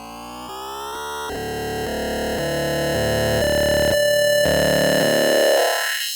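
Synthesized riser sound effect: a stacked synth tone that glides upward in pitch and swells steadily louder, then pulses in short chopped steps before cutting off abruptly near the end.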